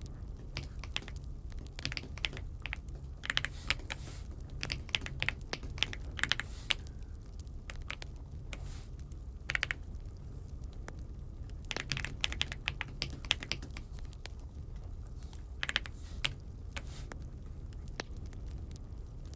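Typing on an Aula F75 mechanical keyboard: irregular runs of key clicks in quick clusters, broken by short pauses.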